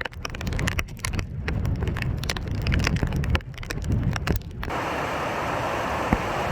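Heavy rain pattering on a van's roof and windows over low buffeting rumbles of wind. About four and a half seconds in it cuts abruptly to a steady rushing roar of gale-force wind.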